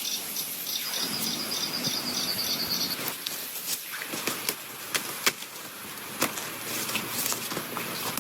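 Rain falling steadily in the forest, with many sharp drips and taps on leaves. During the first two seconds or so, a rapid pulsed chirping call sounds over it.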